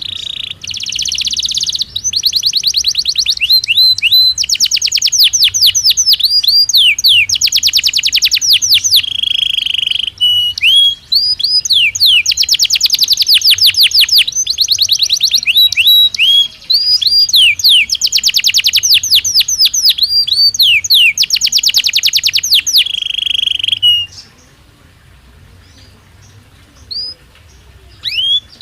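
Belgian canary singing a long, loud song of rapid trills, quick repeated downward-swept notes and buzzing rolls, which breaks off about 24 seconds in, leaving only a few faint single notes.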